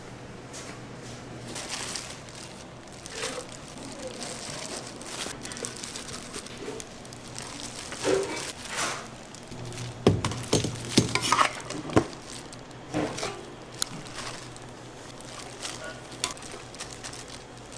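Commercial kitchen work: utensils and dishes clattering and knocking in quick clusters, over a steady low hum.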